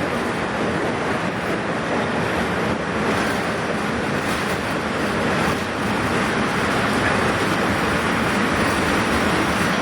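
Staten Island Railway train running between stations, heard from inside the passenger car: a steady rumble and rush of the moving car on the rails.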